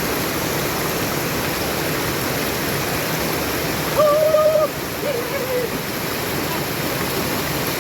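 Steady rush of a brook's flowing water, loud and even. About four seconds in, a short pitched call rises over it, followed a second later by a fainter wavering one.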